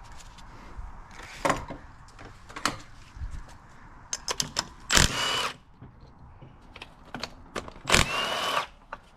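Ratchet wrench and hand tools working on a motorcycle engine during teardown: scattered clicks and clinks of metal, with two louder half-second bursts about five and eight seconds in.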